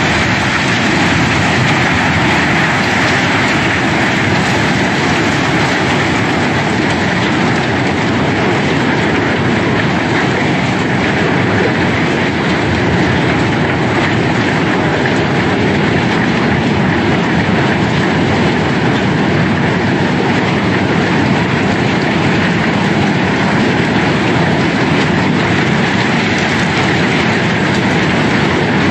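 Cobblestones pouring in a continuous flow, a dense steady clatter of many rocks knocking against each other as a barge's cargo is unloaded.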